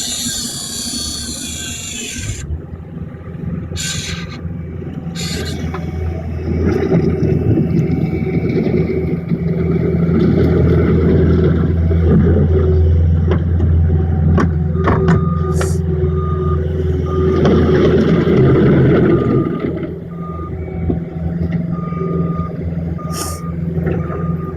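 A large engine running with a steady low drone, which swells louder from about seven seconds in. A hiss at the start cuts off suddenly, and from about fifteen seconds in a single beep repeats about once a second.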